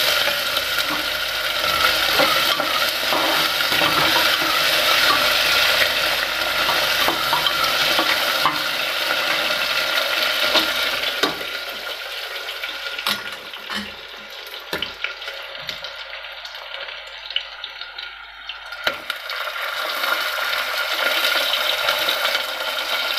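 Cubed potatoes sizzling as they fry in hot mustard oil in an aluminium pressure cooker, with the clicks and scrapes of stirring. The sizzle dies down for several seconds in the middle, with a few scattered knocks, and picks up again near the end.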